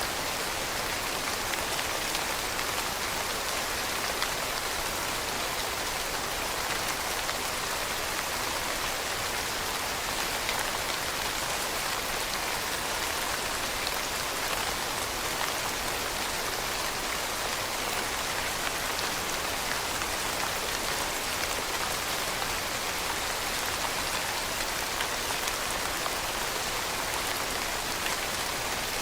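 Steady rain falling, an even hiss of many drops with fine patter on a surface and no thunder.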